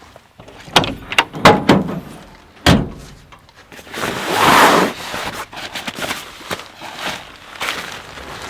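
A run of sharp knocks and clatters, then one heavy thump. About halfway through comes a loud rustling swish, followed by lighter knocks.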